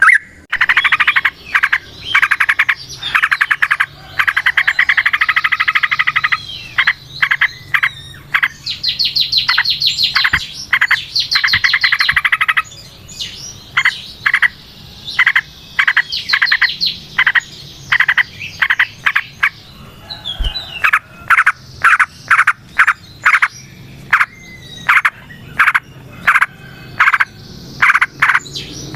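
Yellow-vented bulbuls (trucukan) calling in long runs of rapid chattering trills, loud and nearly continuous, broken only by short pauses.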